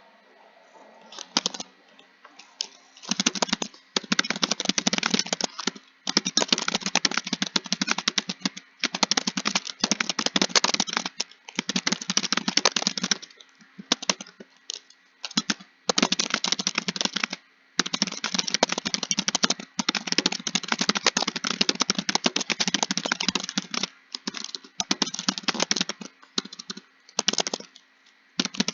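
Computer keyboard typing: fast, dense key clicks in runs of a few seconds each, with short pauses between runs.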